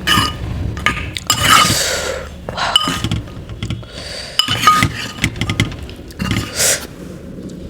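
Metal utensils clinking against dishware several times, short clinks with a brief ring, and mouth noises of eating between them.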